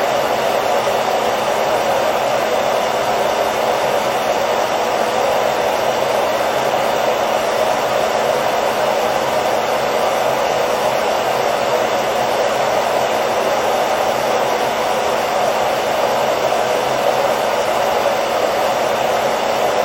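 Hairdryer blowing steadily: an even rush of air with a faint motor hum, unchanging throughout.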